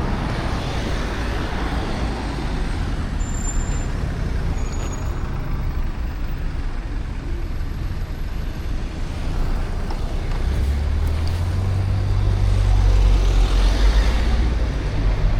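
Road vehicle noise, a steady rushing haze, with a heavy engine's low hum growing louder from about ten seconds in.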